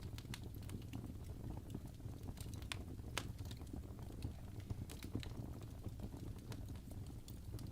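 Wood fire crackling: irregular pops and snaps, a few sharper ones standing out, over a steady low rumble.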